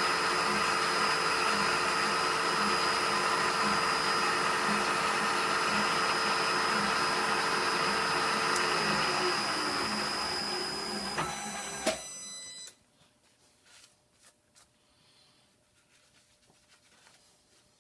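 A machine tool running through a light cut, a steady motor whine with a faint regular pulse. It is switched off about twelve seconds in, spins down with a click, and then only small handling sounds remain.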